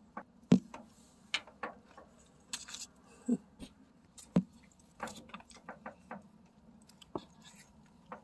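Squirrel's claws clicking and scraping at a door: a couple of dozen irregular sharp clicks and taps, a few with a dull knock.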